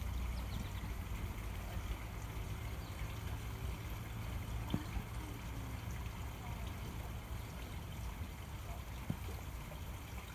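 Outdoor pond ambience: a steady low rumble under a faint even hiss, with two soft clicks about five and nine seconds in.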